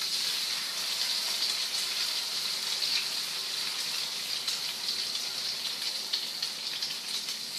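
Breaded chicken cutlets frying in olive oil in frying pans: a steady sizzle with fine crackles.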